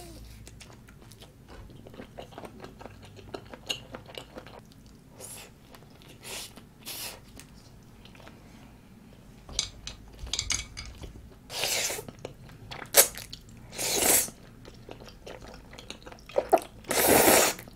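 Close-miked chewing of tteokbokki, thick wheat rice cakes and fish cake, with small wet mouth clicks. In the second half come several short loud slurps, the longest near the end as she slurps from the bowl with chopsticks.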